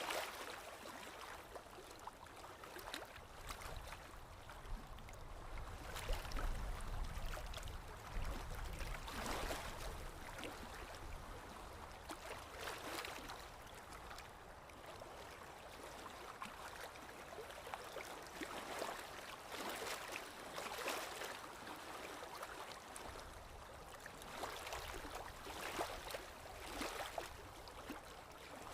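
Paintbrush strokes on a canvas: repeated scratchy swishes every second or two, with a low rumble a few seconds in.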